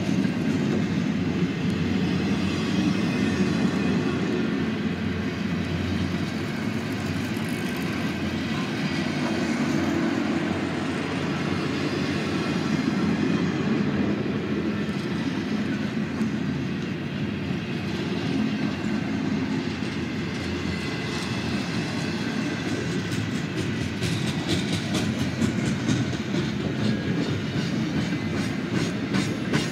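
Double-stack intermodal well cars rolling past on the rails with a steady low rolling noise. Near the end, a regular clickety-clack of wheels over the rail joints sets in.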